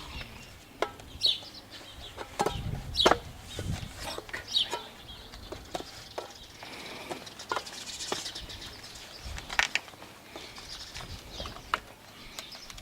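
Scattered knocks and clicks as bee-hive equipment is handled, with a few short high bird calls in between.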